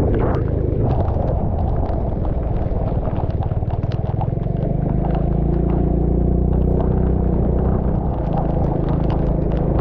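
A vehicle engine running with a steady low drone that shifts a little in pitch around the middle, under many short knocks and rattles.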